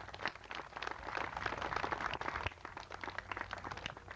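Scattered applause from a small crowd: many quick, irregular claps that thin out toward the end.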